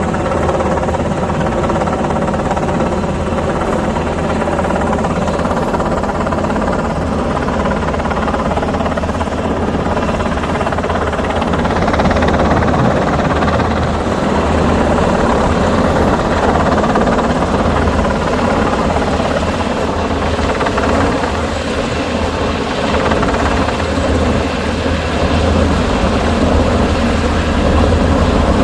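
Civilian Black Hawk helicopter close by, its rotor and turbine making a loud, steady rumble that swells slightly in the second half.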